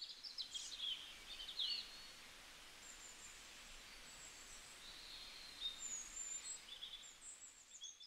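Faint birdsong outdoors: small birds giving quick chirps and thin whistles, bunched in the first couple of seconds and again in the second half, over a soft steady hiss of background noise.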